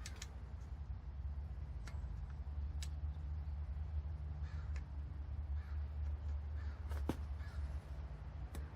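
Crows cawing a few times in the background, over a steady low hum. A handful of sharp clicks from small metal engine parts (lifters and tappets) being handled, the loudest about seven seconds in.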